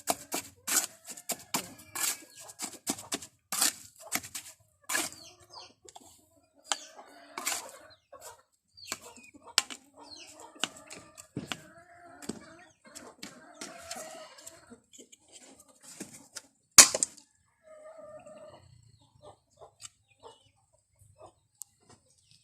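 Irregular clicks and knocks of hands working on a homemade decoration, with short animal calls, likely fowl, in between. One sharp knock about 17 seconds in is the loudest.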